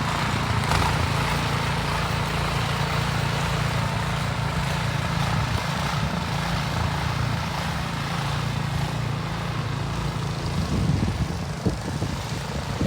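A motor vehicle's engine running steadily, a low even hum over a noisy background, fading about ten and a half seconds in.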